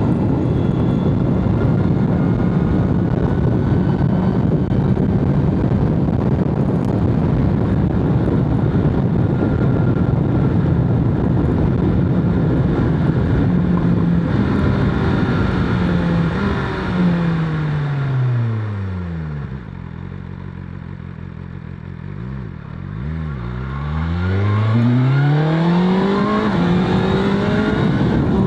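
BMW S1000RR's inline-four engine and exhaust on the move: it holds a steady pitch at speed, then slows with the revs falling through several steps to a low, quieter near-idle about two-thirds of the way in. It then pulls away again with the revs climbing.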